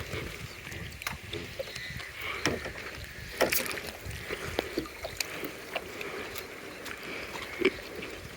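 Light splashing on water, with scattered small knocks at irregular intervals.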